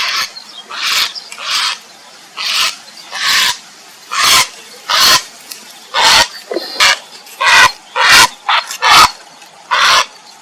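Grey heron giving harsh, croaking calls, more than a dozen short rasping squawks at about one to two a second.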